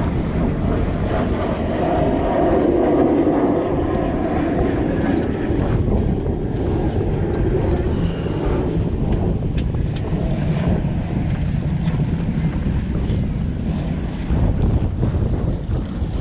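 Wind buffeting the microphone over the steady rush of water along a sailboat's hull as it sails under way.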